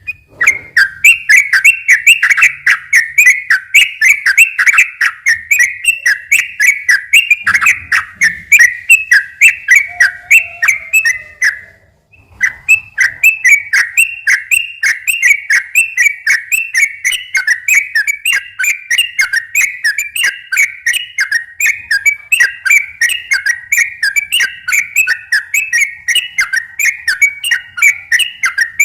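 Sooty-headed bulbul singing a long, fast rolling song: a steady run of short whistled notes repeated a few times a second, broken by a brief pause about twelve seconds in.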